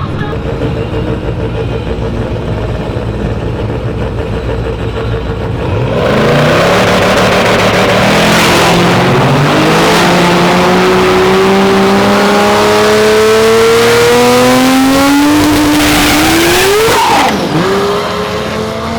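A drag-racing car's engine runs at a steady idle, then launches hard about six seconds in with a sudden jump in loudness. The engine note climbs in pitch through the gears, with a sharp drop and fall-off in loudness near the end.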